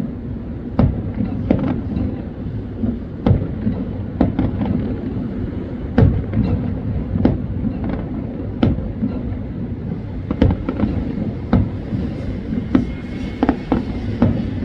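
Fireworks going off: a string of sharp bangs at irregular intervals over a steady low rumble.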